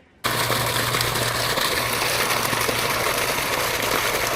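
A water pump running steadily, a low hum under a loud, even rushing hiss, as it pumps out long-standing water. It starts abruptly a moment in.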